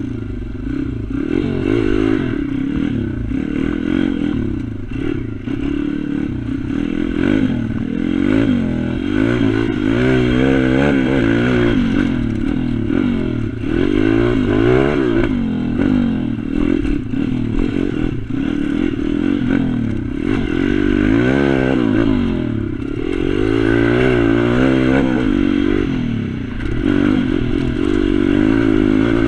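Pit bike engine revving up and down again and again as it is ridden, with its pitch rising and falling throughout.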